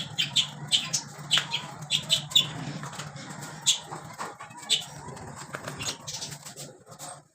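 Parrots flapping their wings in a string of short, irregular bursts, over a steady low hum.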